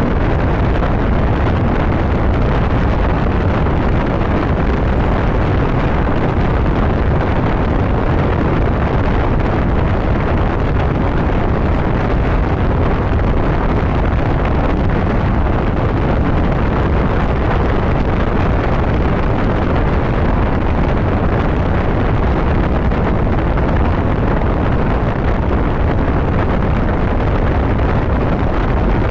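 Motorcycle riding on the open road: steady wind noise buffeting the microphone over the engine running.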